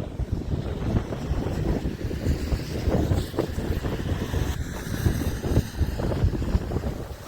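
Strong storm wind buffeting the microphone in gusts, a heavy low rumble that swells and drops.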